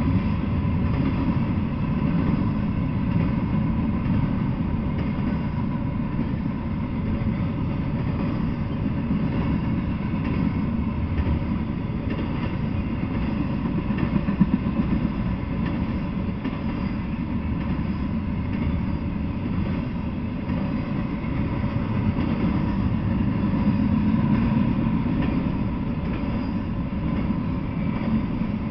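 Intermodal freight train rolling past at steady speed: a continuous rumble of its cars' wheels on the rails, with one brief louder knock about halfway through.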